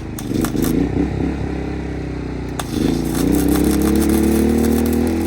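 Engine running steadily, louder and fuller about three seconds in, with a few sharp metallic clicks and clanks in the first seconds.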